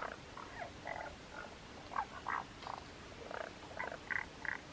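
Chorus of tiny frogs calling from a mountain stream: many short notes in quick, irregular succession, several voices overlapping.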